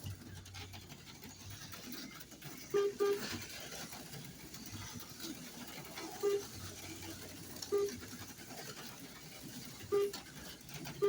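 Short electronic beeps from a slot car lap counter as cars cross the timing line: two in quick succession about three seconds in, then single beeps every couple of seconds. They sound over a faint low hum and light clicking from the running cars.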